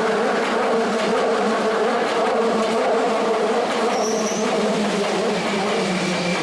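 A Hankyu electric train running at the platform, a steady loud rumble, with a short high tone about four seconds in.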